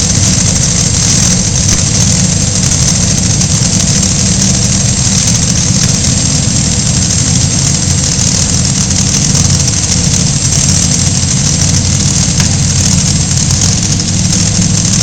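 Engine of a truck or tractor at a pulling competition, running loud and steady with no clear revving up or down.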